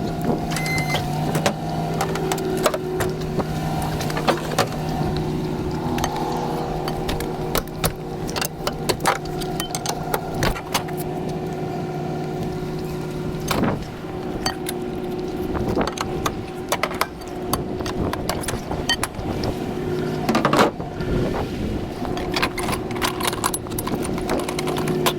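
A vehicle engine running steadily, with frequent metallic clinks and rattles over it.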